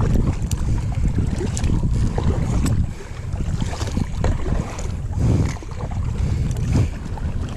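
Wind buffeting the microphone with a heavy, uneven low rumble, over water lapping around a kayak and scattered small clicks and splashes.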